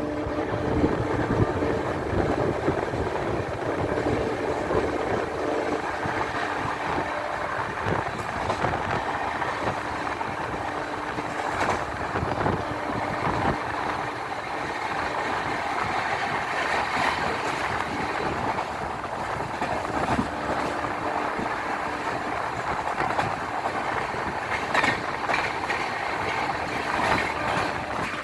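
Diesel-hauled express passenger train running through a station at speed behind a WDP4 locomotive: a steady rushing clatter of wheels over rail joints, with two held tones for the first several seconds.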